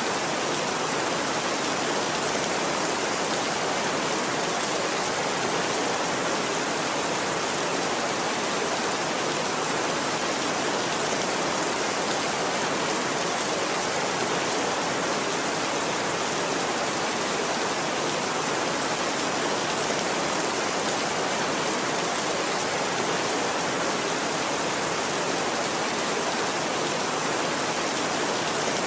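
Steady rain falling, an even, unbroken hiss with no rise or fall and no thunderclaps.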